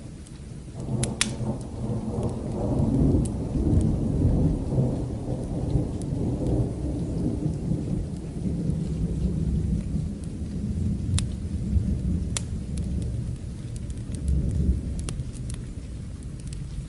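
A long rolling thunder rumble starts about a second in, swells and then slowly dies away near the end over steady rain. Sharp crackles from a wood fire are scattered throughout.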